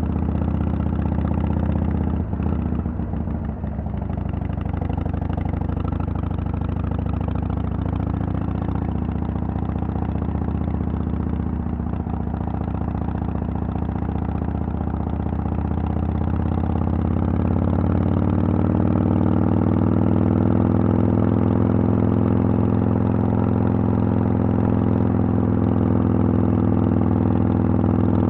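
Harley-Davidson Sportster XL883L's 883 cc air-cooled V-twin running through Vance & Hines Twin Slash slip-on mufflers. The note is steady, dips briefly about three seconds in, then gets louder and higher from about two-thirds of the way through as the revs pick up.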